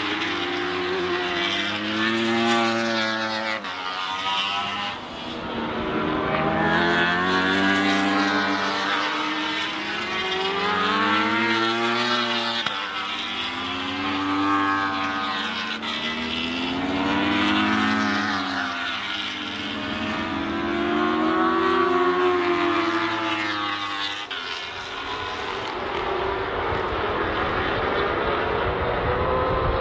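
Racing superbike engines at high revs going by one after another, the engine note rising and then falling with each pass, about every three to four seconds.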